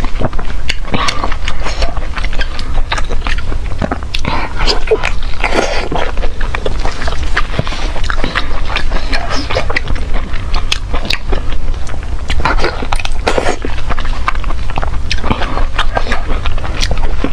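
Close-miked biting and chewing of a large Chinese blood sausage in pig-intestine casing, coated in chili seasoning: wet, sticky mouth sounds with many small irregular clicks. A steady low hum runs underneath.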